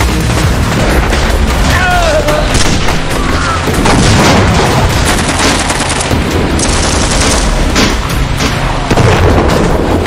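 Rapid gunfire and boom sound effects, dense and continuous, over loud background music.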